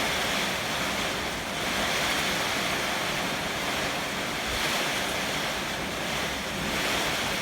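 Heavy typhoon rain with strong wind, a steady rushing hiss that swells and eases in gusts every couple of seconds.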